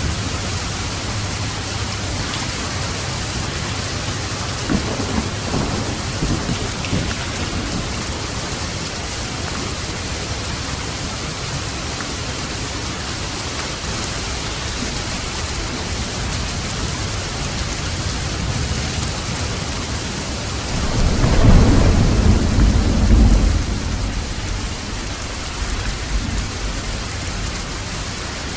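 Steady rain falling, with a low roll of thunder swelling and rumbling for a couple of seconds about three-quarters of the way through.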